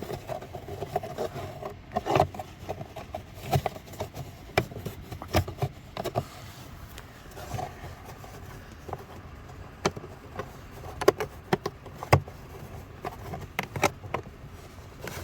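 Irregular clicks, knocks and light scrapes of a car trim cover being pushed and worked loose by hand.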